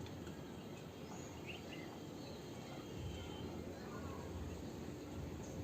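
A few short, faint bird chirps from small birds over a steady low background rumble.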